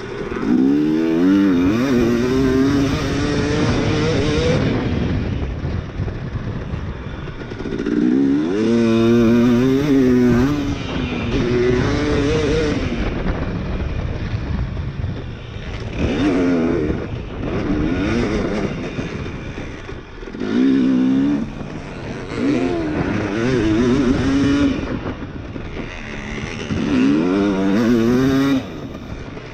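Two-stroke motocross dirt bike engine revving hard, its pitch climbing through the gears, then easing off and pulling again several times as the bike is ridden.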